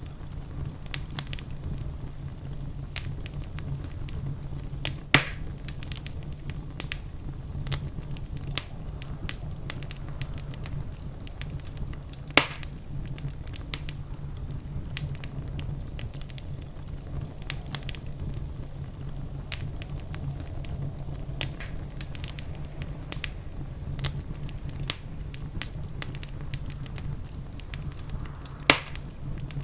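Wood fire in a fireplace crackling steadily with frequent small snaps over a steady low rumble, and three louder pops: about five seconds in, around twelve seconds in, and near the end.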